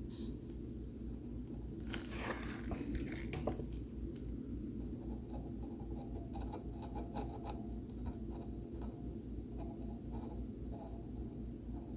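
Light scratching and small clicks of hand tools working on a circuit board while chips are desoldered, over a steady low hum. The clicks come in a brief cluster early on and then more often through the second half.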